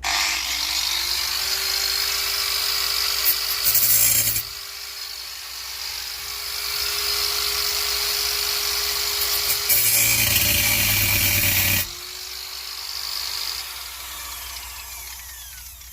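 Angle grinder spinning up and running with a steady whine, grinding hard against the workpiece for about four seconds, running more lightly, then grinding hard again for about two seconds. It is then switched off and its whine sinks and dies away near the end.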